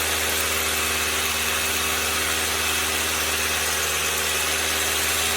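An electric motor running steadily: a low hum with a loud hiss over it, unchanging in pitch and level.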